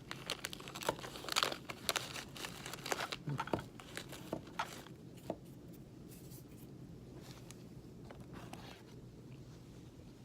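Granola bar wrapper being crinkled and torn open: dense crackling and tearing for the first few seconds, then sparser, fainter crinkles.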